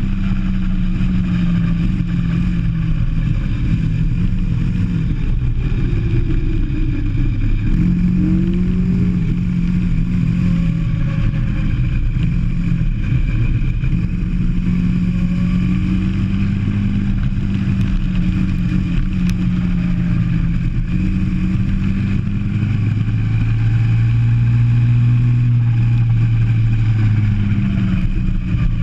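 Go-kart engine heard onboard, running hard around a track, its pitch rising and falling as the kart accelerates and lifts off for corners.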